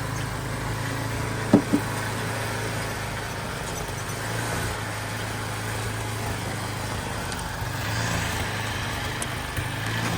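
Gasoline snow blower engine running steadily while clearing snow, with a brief sharp knock about a second and a half in.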